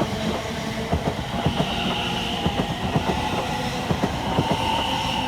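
Class 720 electric multiple unit pulling out of the station, a steady whine from its traction equipment over irregular clicking of wheels crossing rail joints.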